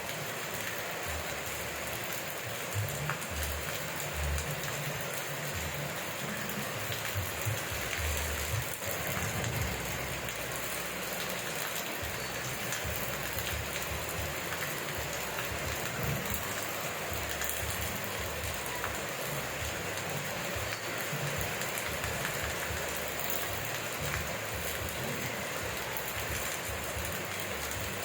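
Steady rain falling, an even hiss, with irregular low rumbles underneath.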